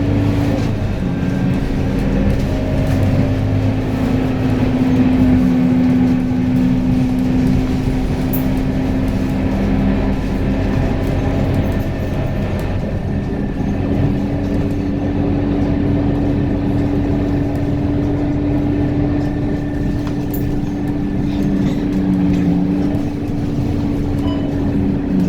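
A vehicle running steadily: a continuous low rumble with a held hum that barely changes in pitch.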